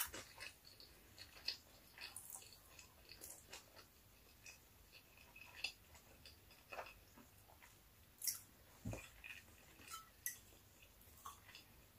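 Quiet, close-miked chewing: soft, irregular mouth clicks and smacks of a person eating.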